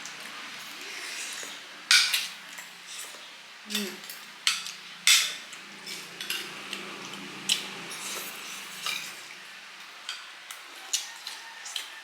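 Spoons clinking and scraping against bowls and plates while eating soup and rice: irregular sharp clinks, the loudest about 2 and 5 seconds in.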